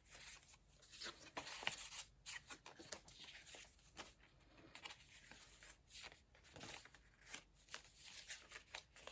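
Faint, scattered rustling of paper pages in a handmade journal being turned and handled.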